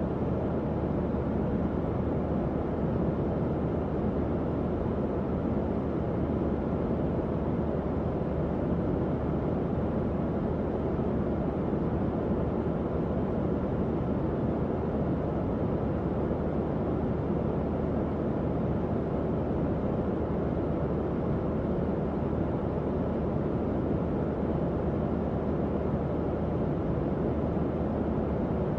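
Tower fan running steadily at constant speed. Its airflow makes an even, low-weighted rushing noise with a faint low hum from the motor.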